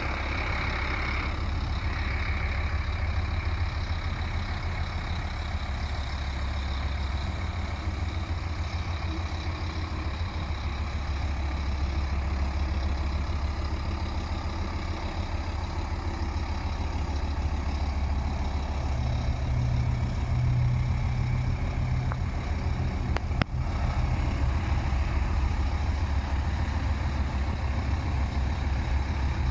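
Scania P310 truck's nine-litre five-cylinder diesel idling steadily. Its note fills out and gets a little louder about two-thirds of the way through, with one sharp click shortly after.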